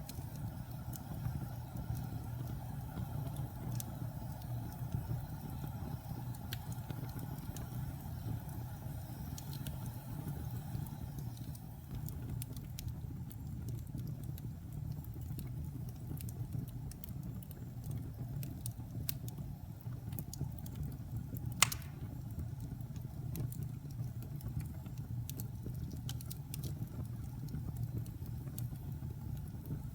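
Wood fire burning in a fireplace: a steady low rumble of flames with scattered small crackles, and one sharp louder pop about two-thirds of the way through.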